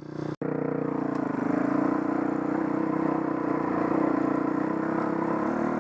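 Dirt bike engine running steadily, its note rising a little and then holding, after the sound cuts out for an instant just under half a second in.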